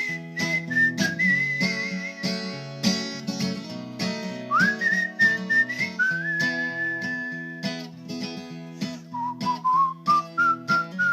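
Acoustic guitar strumming with a person whistling a slow melody over it in long held notes that slide up into pitch.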